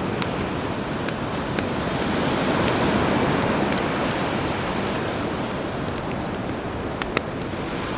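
Campfire crackling with scattered sharp pops over the steady wash of sea waves, a wave swelling about two to three seconds in.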